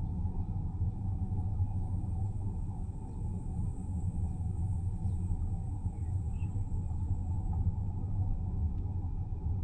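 Car driving along a road: a steady low rumble of tyres and road noise, with a faint high buzz of cicadas above it.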